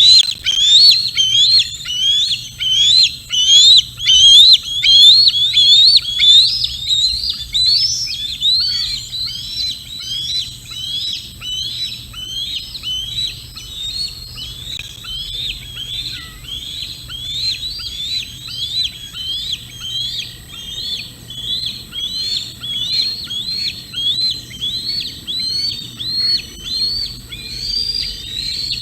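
Juvenile bald eagle calling: a long unbroken series of high, squealing notes, each rising then falling, about two a second. The notes are loudest for the first several seconds, then go on a little softer.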